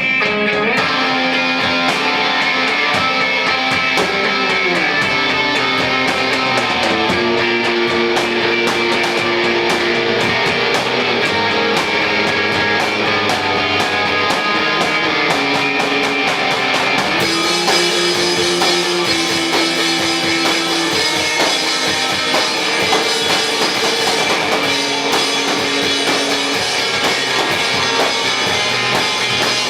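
Amateur garage rock band playing live: electric guitar over drums, with the cymbals growing brighter a little past halfway through.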